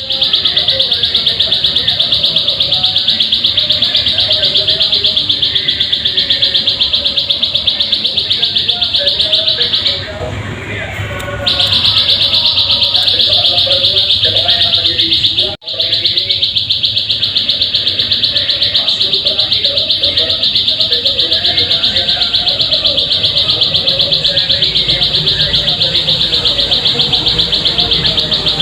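Ciblek sawah (plain prinia) singing a loud, continuous, very rapid trill of repeated high notes, pausing for about a second and a half near the middle. Fainter chatter runs underneath.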